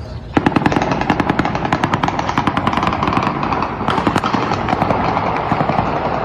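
Rapid gunfire, many shots in quick succession, beginning about half a second in and running almost to the end.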